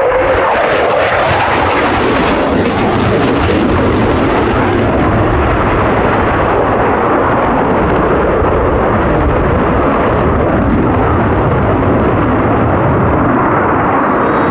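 Loud jet roar of an F-15 fighter's twin turbofan engines. The high hiss is strongest about two to four seconds in and then eases off, while the deep rumble holds steady.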